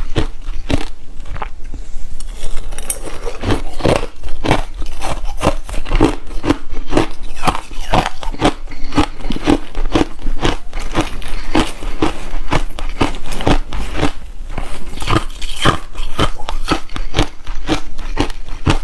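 A person chewing hard refrozen crushed ice close to the microphone: loud, rapid crunches, several a second, as the chunks crack between the teeth.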